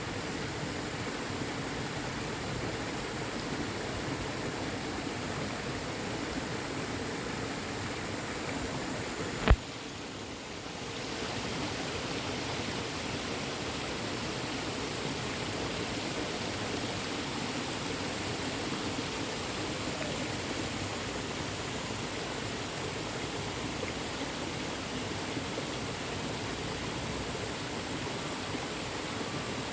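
Mountain valley stream rushing steadily over rocks. About nine and a half seconds in there is a single sharp click, and the water sounds briefly quieter for a second or so before the steady rush returns.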